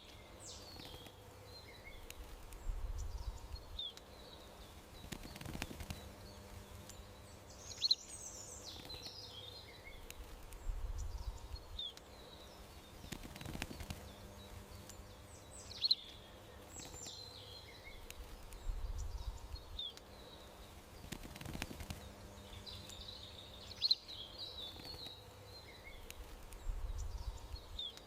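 Small birds chirping and twittering in short, sharp calls, the same sequence of calls repeating about every eight seconds, over a faint low rumble.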